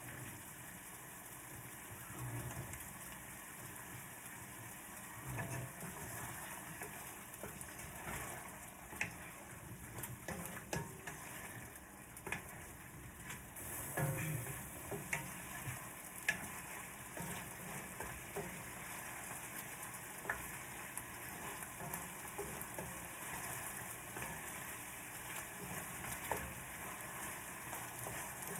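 Chicken pieces frying in a pan, sizzling steadily, with scattered clicks and scrapes of a utensil stirring them.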